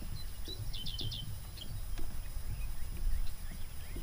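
Small birds chirping in quick runs of short, high notes, the clearest about half a second in, over a steady low rumble.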